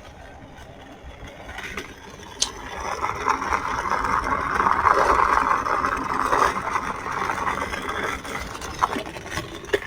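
Skateboard wheels rolling over rough pavement with a rattle, getting louder as it comes closer, loudest in the middle and fading away again, with a few sharp clicks.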